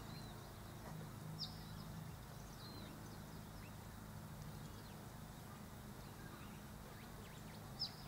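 A few short, high bird chirps, one about a second and a half in and another just before the end, over a faint low steady hum.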